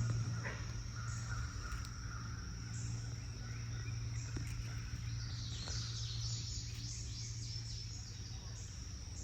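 Outdoor aviary ambience: a steady low hum under steady high insect buzzing with regular pulses, and a brief flurry of high, quick bird chirps about five to eight seconds in.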